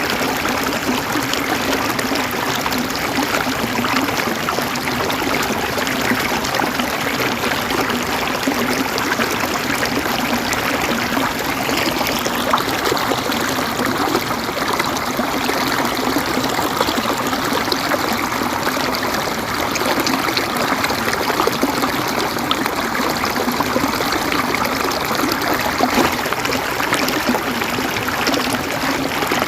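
Flowing water running steadily, an even rushing sound with no breaks.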